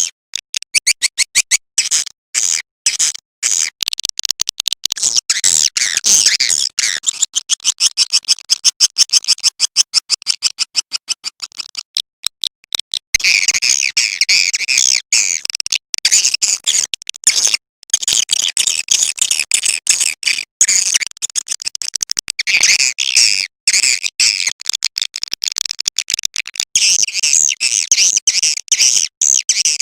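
Recorded edible-nest swiftlet calls played as a lure sound: rapid clicking for about the first twelve seconds, then dense, high twittering chirps.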